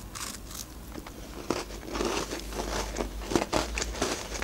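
Crunchy bites and chewing of a crisp Ozmo cookie with a chocolate filling: irregular crackling crunches, thickest from about a second and a half in.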